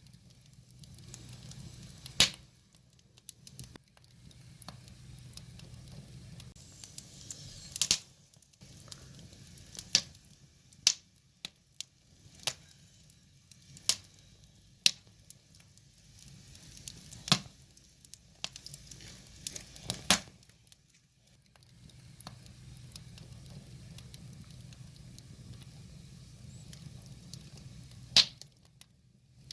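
Wood fire burning, with a soft steady hiss and sharp irregular crackles and pops from the burning logs, a dozen or so loud ones spread unevenly through the stretch.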